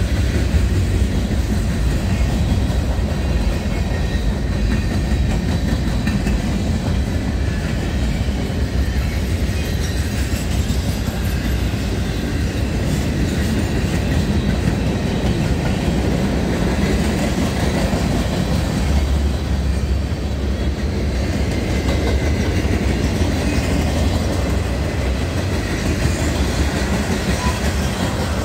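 Cars of a CSX freight train rolling past: a steady, loud rumble of steel wheels on the rails that holds level throughout.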